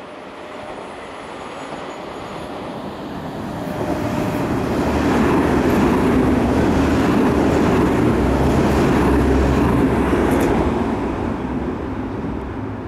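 Nankai electric commuter train running past the station platform: the rumble of its wheels and motors swells over the first few seconds, holds loud, then fades away near the end.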